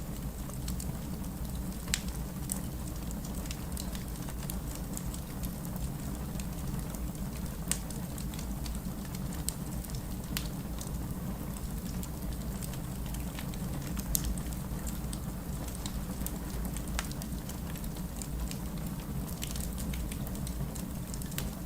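Wood fire in a fireplace crackling, with scattered sharp pops, over steady rain and a low rumble.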